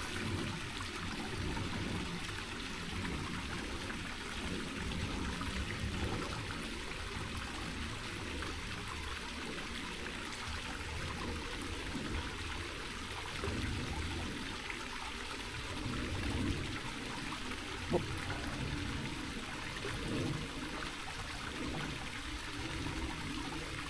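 Small rocky mountain creek running steadily over rocks, with one sharp click about three quarters of the way through.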